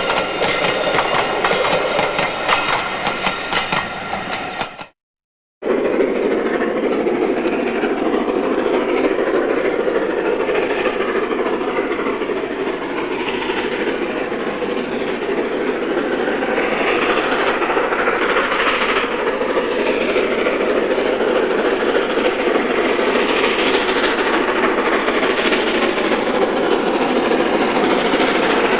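A train running along the line, with a steady clatter of wheels on the rails and high ringing tones over it for the first few seconds. The sound cuts out briefly about five seconds in, then a continuous run of wheel and rail noise follows.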